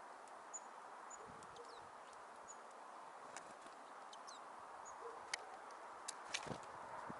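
Small birds at a winter feeder calling faintly: scattered thin, high call notes and a few short downward-sliding calls, with several sharp taps in the second half over a steady low hiss.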